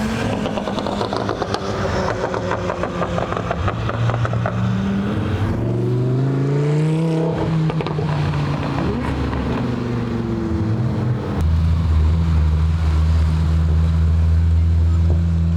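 Car engines and exhausts running close by. About six seconds in, a car accelerates past with its engine pitch rising and then falling away. About eleven seconds in, a loud, steady, deep exhaust drone starts up close.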